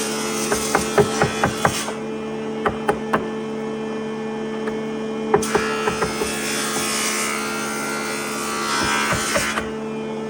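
Woodworking sounds: wood knocking and clicking in short strokes, with two stretches of scraping noise, one ending about two seconds in and another of about four seconds from the middle on, over a steady hum.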